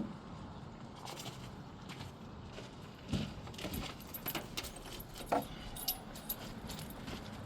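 Scattered light metallic clicks and clinks, with a few louder knocks about three seconds in and about five seconds in, over faint background noise.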